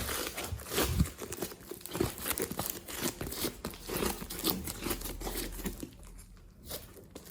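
Glossy slime being squished and stretched by hand: a dense run of irregular sticky crackles and pops, quieter near the end.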